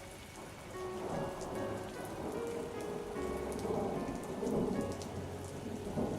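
Steady rain falling, with a low rumble of thunder that rolls in about a second in and swells in several waves. Faint soft music notes sit underneath.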